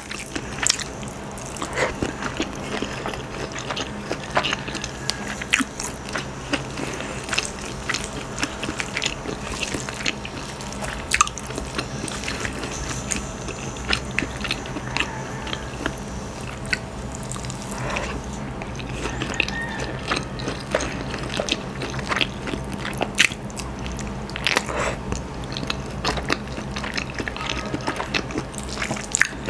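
Close-miked mukbang eating sounds: wet chewing and smacking of a mouthful of rice and shredded spicy chicken eaten by hand, with many short sharp wet clicks throughout.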